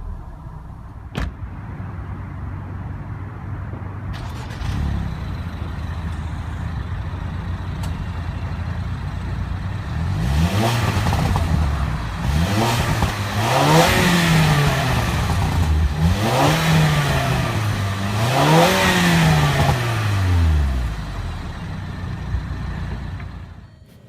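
2015 Range Rover Evoque's 2.0-litre turbocharged four-cylinder engine idling steadily, then revved four times in quick succession about ten seconds in, each rise in pitch falling back to idle before settling.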